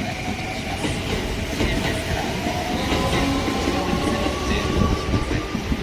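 Sanyo Electric Railway train on the move at the station: wheels rumbling and clicking over the rail joints, with an electric motor whine rising steadily in pitch as the train gathers speed.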